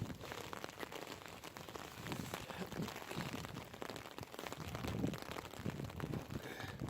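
Rain pattering in a dense spray of small drop clicks, with dull low thuds and rumbles coming and going underneath.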